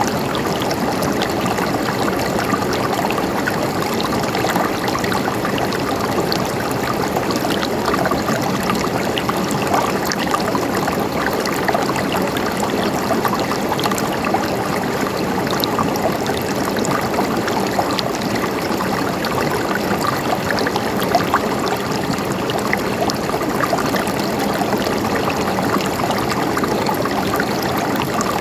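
Mountain stream flowing steadily, a constant babble of gurgling water flecked with many small splashes.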